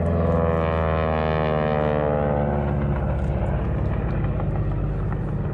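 Propeller airplane flying past low, its engine drone dropping in pitch as it goes by, then running on steadily.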